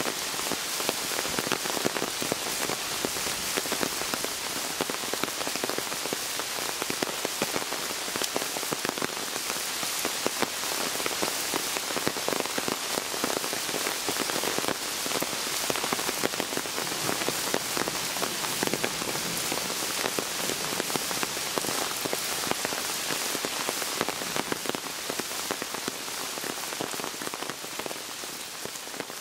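Steady rain pattering on wet sandy ground and into a shallow rainwater runoff stream, a dense even hiss of countless small drops.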